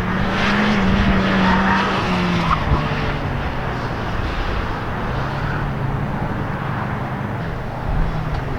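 A car at speed on an autocross course, its engine held high and then eased off, with tires squealing through the turns in the first few seconds.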